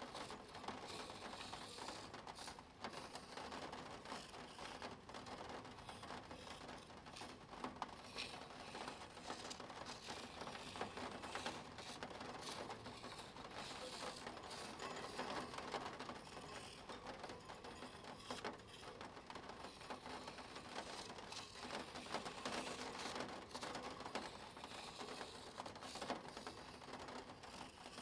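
Spirograph drawing: a plastic toothed gear wheel turning against its ring, with a faint, steady run of fine clicking as the teeth engage and a pen scratching on paper.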